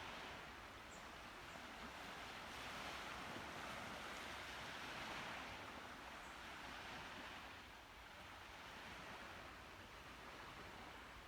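Faint Baltic Sea waves washing in, the surf noise swelling and easing every few seconds, with a few tiny high chirps.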